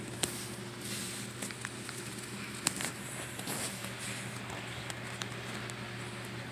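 Hands working on a small RC crawler chassis: scattered light clicks and rustling of plastic parts and wires as components are fitted, with two sharper clicks, over a steady low electrical hum.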